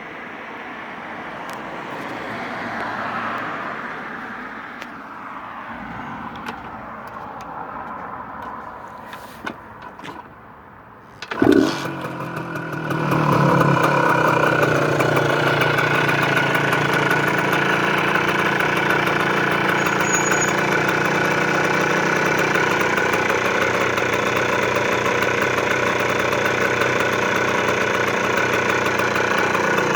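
OSSA 250 MAR trials motorcycle's two-stroke single-cylinder engine, started with a sudden loud burst about eleven seconds in and then idling steadily. Before it starts there is a fainter drone that swells and fades, with a few clicks.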